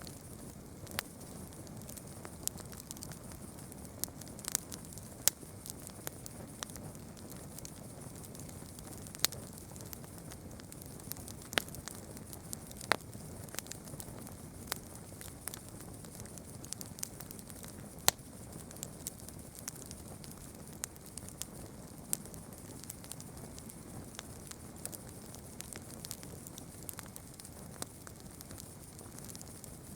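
Campfire burning, with irregular sharp crackles and pops over a steady low hiss of flame; a few pops stand out louder, one about eighteen seconds in.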